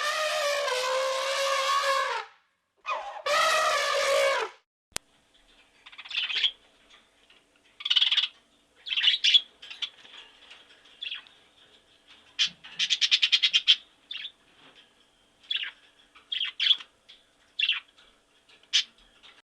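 Two long, wavering animal calls, one after the other. Then a sharp click, followed by scattered short, high bird chirps and peeps, with a fast trill in the middle.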